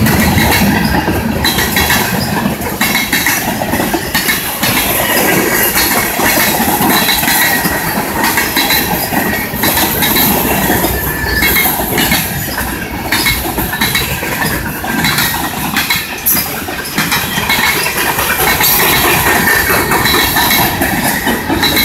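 Freight cars of a CSX mixed manifest train rolling past: the loud, steady rumble of steel wheels on rail with repeated clacking over the rail joints and a thin high wheel squeal at times.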